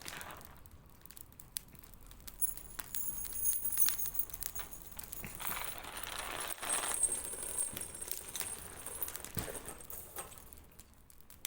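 Bonfire crackling with many sharp pops, and a thin high whistling hiss from about two seconds in until about eight seconds in.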